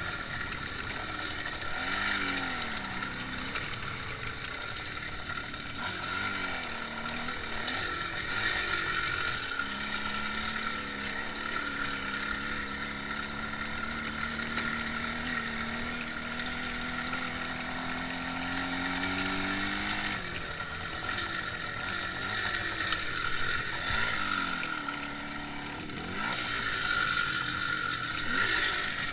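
IZh Jupiter 5 motorcycle's two-stroke twin engine running under way, with a rattly mechanical clatter. Its pitch rises and falls several times as the revs change, with one long steady climb through the middle before dropping off about two-thirds of the way in.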